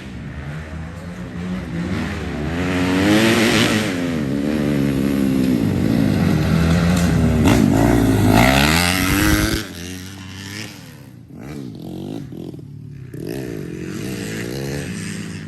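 Motocross dirt bike engine revving, its pitch rising and falling, growing loud through the middle, then dropping away suddenly about two-thirds of the way in to a quieter running engine.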